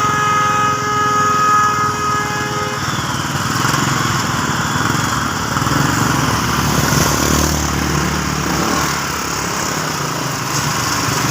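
A small engine running steadily, with a held horn-like tone that stops about three seconds in.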